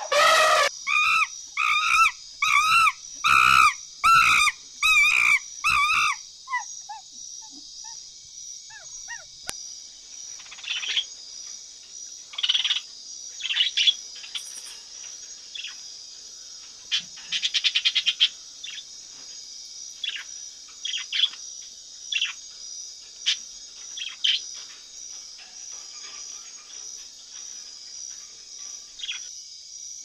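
A bird call repeated about nine times at an even pace over the first six seconds, then scattered short chirps and calls over a steady high-pitched insect drone, with a brief fast rattle a little past halfway.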